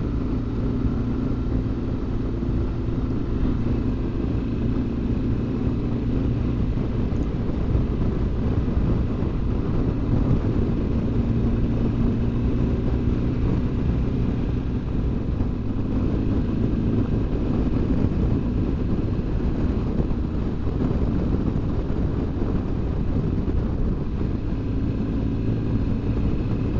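BMW R1200GS Adventure's flat-twin engine running steadily while riding at road speed, with a steady low drone and an even rushing noise.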